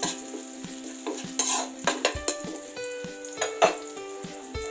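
Minced garlic and chopped red chilies frying in oil in a metal wok, sizzling steadily. A metal spatula stirs and scrapes against the wok, making short sharp scrapes and clicks every half second or so.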